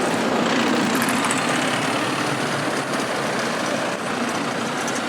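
City street traffic with a heavy vehicle's engine running close by, a steady low hum over the general traffic noise.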